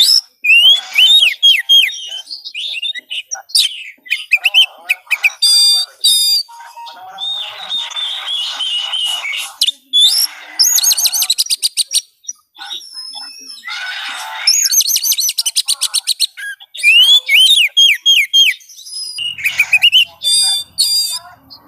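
Oriental magpie-robin (kacer) singing loudly: a varied, continuous run of clear whistles, rising sweeps and fast rattling trills, broken by short pauses.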